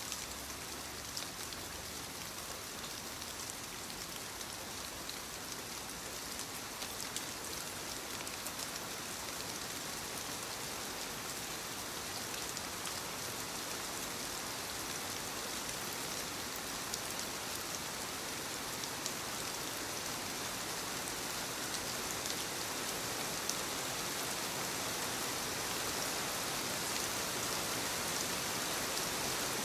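Soft rain falling on leaves: a steady hiss with many small drop ticks, slowly growing louder.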